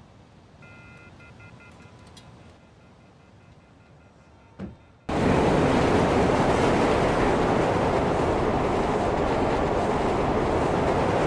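Quiet room tone with a few faint thin tones, then, about five seconds in, an abrupt cut to a subway train running: a loud, steady rushing rumble that holds to the end.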